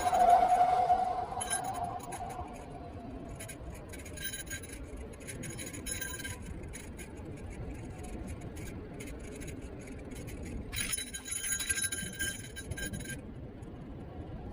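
Niu KQi3 Pro electric scooter's motor whine sinking in pitch and fading over the first couple of seconds, over steady rolling noise. Three spells of rapid high-pitched rattling and clinking follow.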